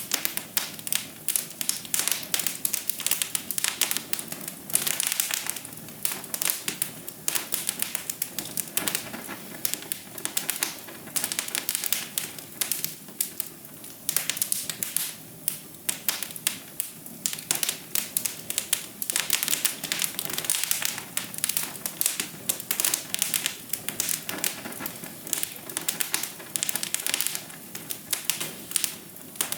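Wood fire crackling in a fireplace: dense, irregular pops and snaps over a steady low rush of burning.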